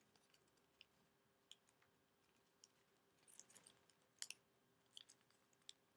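Faint, scattered crinkles and clicks of paper being handled and creased by hand. The origami paper is being unfolded and its pleats refolded.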